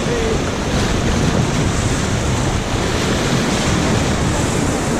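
Steady rush of river water, with wind noise on the microphone.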